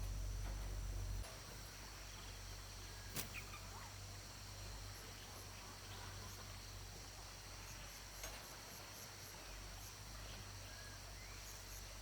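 Steady high insect chirring in the background. A low hum cuts off about a second in, and there are two sharp knocks, about three seconds in and near eight seconds.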